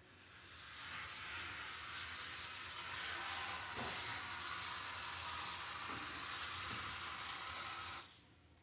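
A steady, hissing spray-like noise that swells in over the first second, holds even, and cuts off sharply about eight seconds in.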